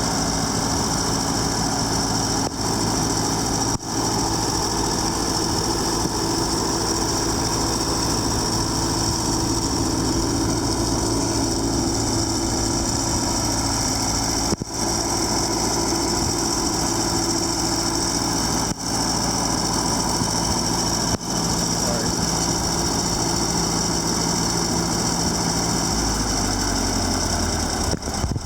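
Wisconsin VG4D air-cooled V4 engine running steadily; near the end its pitch drops as it slows.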